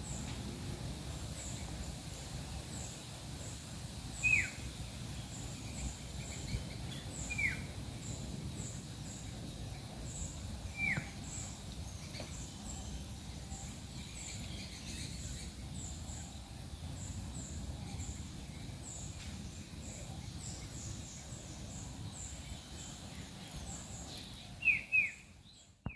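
Sooty-headed bulbul calls: a few short, sharp notes sliding downward in pitch, spaced several seconds apart, with two in quick succession near the end. Faint high chirping runs throughout over a steady low background rumble.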